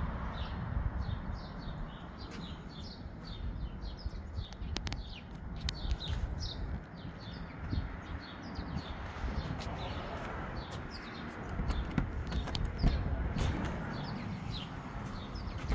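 Small birds chirping, a steady run of short, quick falling notes several times a second, over a low rumble with a few clicks.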